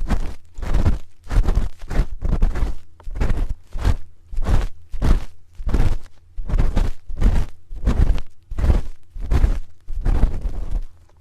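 A spoon rubbing and scraping against a binaural microphone's ear in repeated strokes, roughly two a second. Each stroke is a muffled, close rubbing sound with a deep thud in it.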